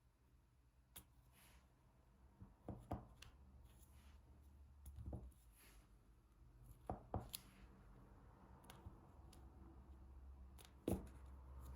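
Sparse soft clicks and taps of a diamond-painting drill pen picking resin drills from a tray and pressing them onto the sticky canvas, a few seconds apart, over a faint low hum.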